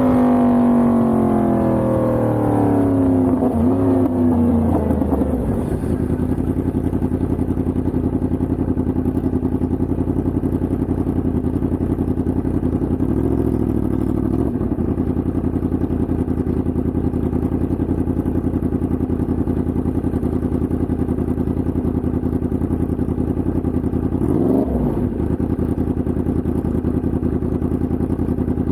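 Yamaha MT-10's crossplane inline-four engine running down through the revs over the first five seconds, then settling into a steady low engine speed. About 24 seconds in there is a short throttle blip that rises and falls.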